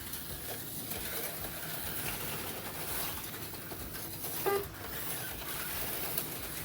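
HO-scale slot cars running on the track: a steady whir of their small electric motors and pickups on the rails. A short pitched blip comes about four and a half seconds in.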